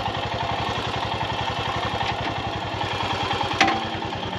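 Motorcycle engine idling, its firing pulses coming evenly at about a dozen a second. A single sharp click sounds about three and a half seconds in.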